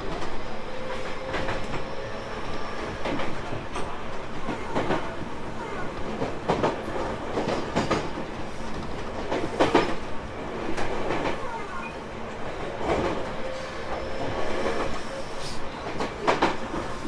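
Tobu 30000 series electric train running at speed: a steady rolling rumble with wheels clacking over rail joints at irregular intervals, and a faint steady hum.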